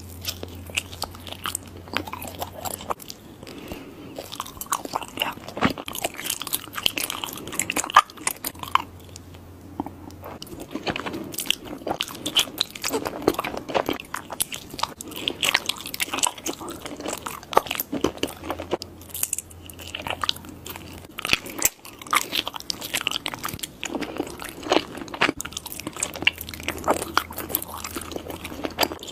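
Close-miked biting and chewing of mochi: many short mouth clicks and smacks in irregular bunches.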